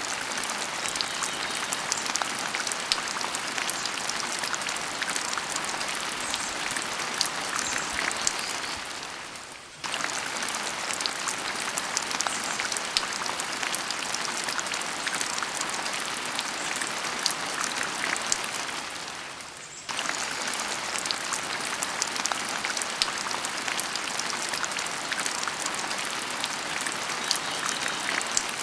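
Steady rain: a hiss full of fine drop ticks. It fades down and cuts back in abruptly about every ten seconds, twice.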